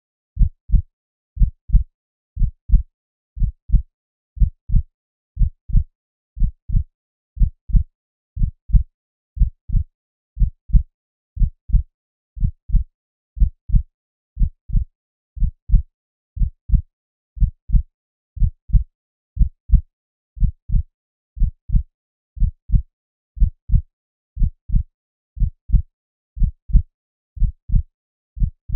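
Human heartbeat: steady paired low thumps (lub-dub), about one beat a second.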